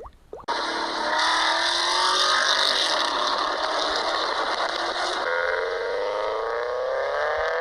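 Car engine and exhaust accelerating, its pitch climbing slowly, with a step about five seconds in before it climbs again.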